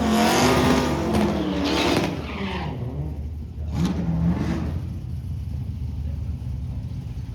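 Drag-racing car engines revving and accelerating, loudest in the first two seconds, with a brief rise and fall in pitch about four seconds in, then a steadier, quieter engine drone.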